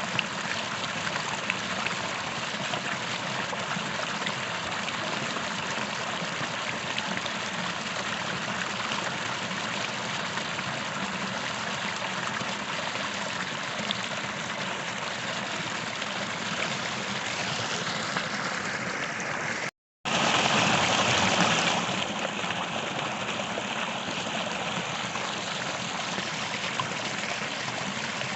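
Creek water flowing steadily in a constant rushing babble. About two-thirds of the way through the sound cuts out for a split second, then returns louder for a couple of seconds before settling back to the same steady flow.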